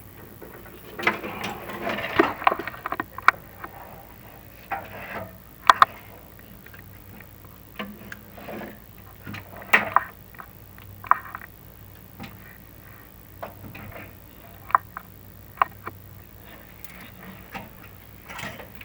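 Irregular clicks, taps and short scrapes of a chimney inspection camera knocking and rubbing against the clay flue tiles as it is lowered down the flue, over a faint steady hum.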